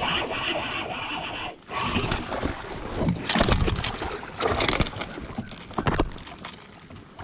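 Water sloshing and splashing around a fishing kayak, with scraping knocks on the hull and several louder bursts.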